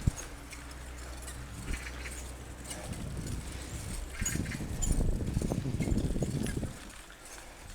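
Mountain bike rolling over a rough dirt trail: low tyre rumble with knocks and rattles from bumps. It is busiest in the second half and eases off near the end.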